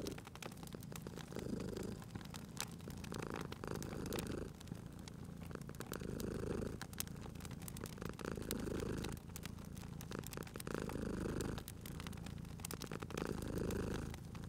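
Domestic cat purring steadily, the purr swelling and easing with each breath about every two and a half seconds, over the scattered pops and crackles of a wood fire.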